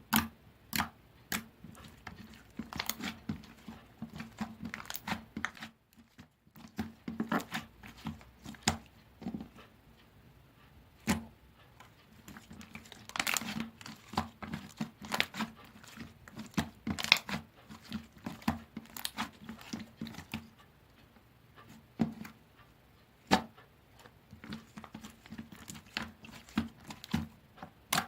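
Bouncy slime being squeezed and poked by hand, giving irregular sharp pops and crackles, some in quick clusters.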